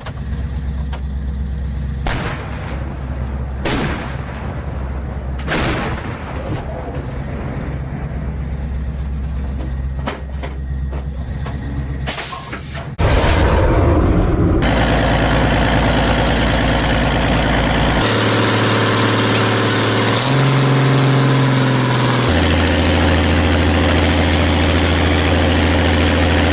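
Artillery guns firing: four sharp reports over a steady low engine drone. About halfway through, a much louder, dense sustained sound takes over and shifts abruptly several times.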